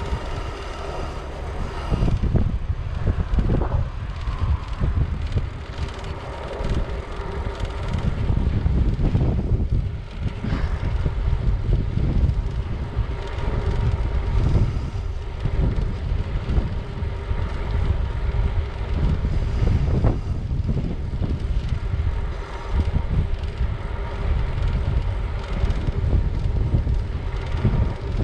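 Wind buffeting the microphone of a camera carried on a moving bicycle: a loud, gusting low rumble.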